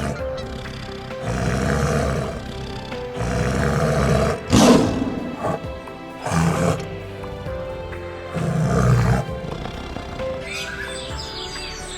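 A large animal roaring about five times, each call around a second long, the loudest near the middle, over background music with steady held notes.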